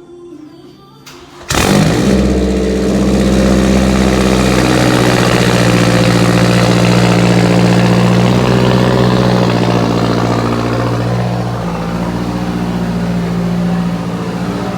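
A car engine running loud at steady revs, starting abruptly about a second and a half in, with a slight drop in pitch near the end.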